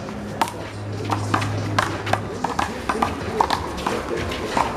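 One-wall handball rally with a big blue rubber ball: a quick string of sharp slaps, about three or four a second, as the ball is struck by hand and smacks off the wall and the court.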